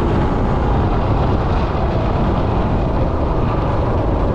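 Predator 212 single-cylinder four-stroke engine on a minibike running steadily under load while being ridden.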